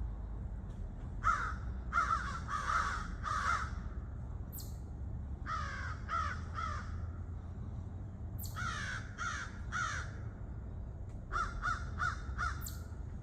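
Crows cawing in repeated bouts of three to five harsh caws, mobbing calls aimed at a barred owl. Under the calls there is a steady low rumble.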